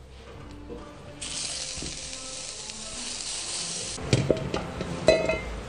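Vegetable slices sizzling in hot oil in a frying pan: an even hiss that starts suddenly about a second in and cuts off after about three seconds. A few sharp clatters of kitchen utensils follow near the end.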